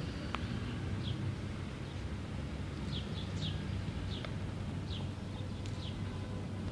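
Small birds chirping in short, high, falling notes, repeated every second or so, over a steady low rumble. A single light knock sounds about a third of a second in.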